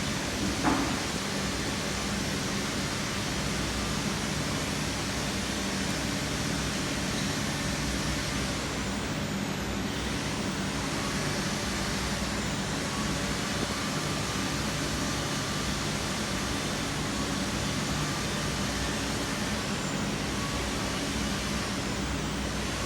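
Steady low hum with an even hiss, constant throughout, and one short knock about a second in.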